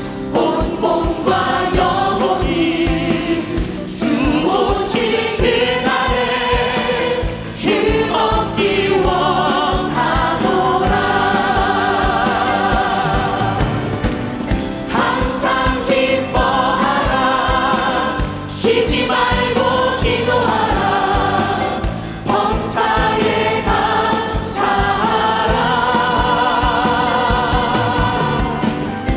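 A choir and congregation singing a Korean hymn with instrumental accompaniment, the held notes sung with vibrato.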